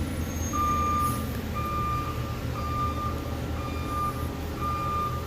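Vehicle backup alarm beeping steadily at one pitch, about once a second, over a low engine rumble.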